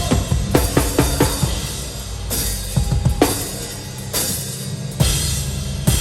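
Live hardcore band playing, heard close to the drum kit: a rapid run of kick and snare hits for the first second and a half, then Meinl crash cymbals struck every second or so over the sustained low rumble of the band.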